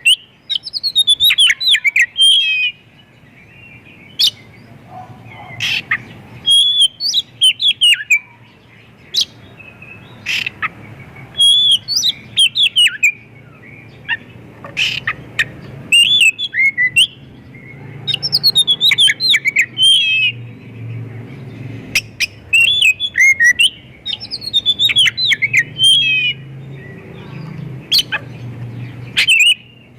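Oriental magpie-robin singing loudly in repeated bursts of varied whistles, quick trills and sharp notes, with short pauses between phrases. This is a bird in full song, packed with mimicked fill-in phrases of the kind used as a lure to get other magpie-robins singing.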